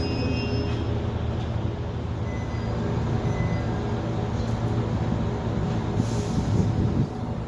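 KiHa 110 series diesel railcar running, its diesel engine giving a steady low drone, with the last of a wheel squeal fading at the start. A short hiss about six seconds in, after which the sound drops a little.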